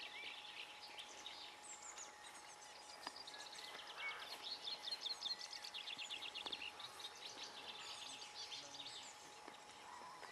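Birds singing and calling: a busy run of short, quick chattering notes, densest in the middle, over a faint steady whine.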